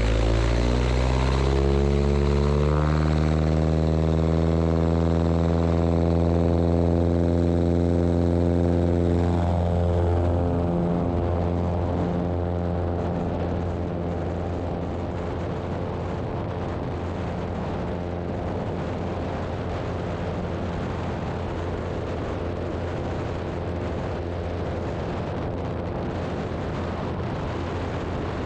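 Zenith STOL CH 750 Super Duty's engine and propeller at take-off power. The pitch climbs over the first few seconds, then holds a steady full-power drone. About ten seconds in the tone sweeps downward and settles into a slightly quieter, steady drone.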